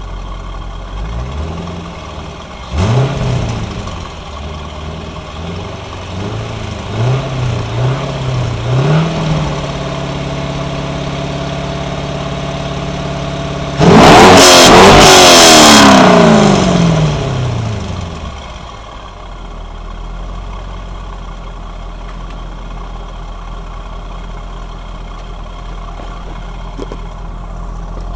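2001 C5 Corvette's 5.7-litre LS1 V8, breathing through a Z06 titanium mid-pipe and cats with the stock C5 mufflers, running at idle and being revved. It gets a few short blips, then is held at a steady higher speed, then revved hard about fourteen seconds in, the loudest moment, before the revs fall back to idle.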